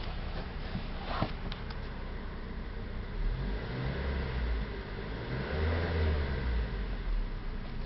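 Mazda 3 2.0-litre four-cylinder petrol engine running, rising in revs twice: about three seconds in and again about six seconds in.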